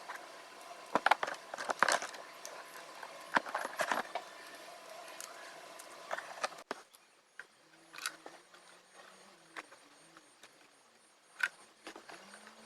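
Scattered clicks and clinks of hand tools and metal parts being handled during reassembly of a fuel pump, busiest in the first half. About two-thirds in the sound drops away to a quieter stretch with only a few sharp ticks.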